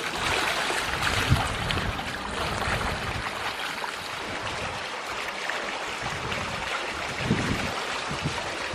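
Water rushing and splashing along the hulls of a catamaran under way, with gusts of wind buffeting the microphone.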